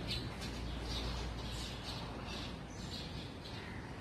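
Small birds chirping, short repeated chirps several times a second, over a low steady background rumble.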